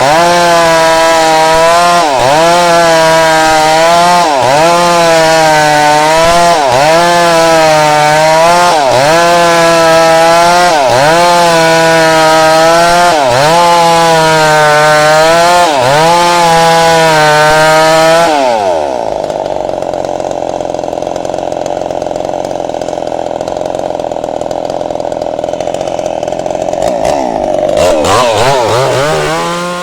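Small two-stroke chainsaw running loud at high revs while ripping timber lengthwise into boards, its note dipping briefly about every two seconds. About two-thirds of the way through it drops to a lower, quieter note, then revs up and down again near the end.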